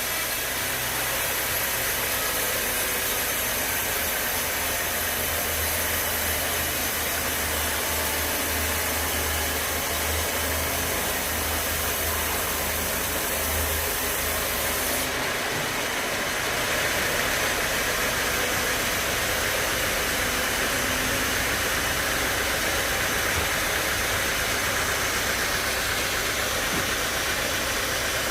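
Sawmill machinery running steadily: a low motor hum under a wash of mechanical noise, with the hum dropping away and the noise changing tone about halfway through.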